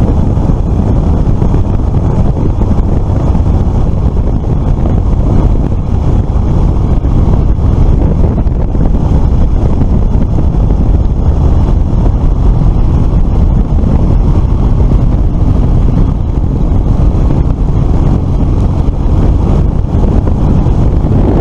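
Steady loud wind buffeting on the microphone of a moving scooter, mixed with road and engine noise from the ride.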